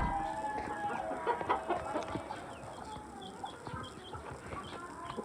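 Aseel chickens clucking in short, broken calls, with small high chirps in the middle, after a sharp click at the very start.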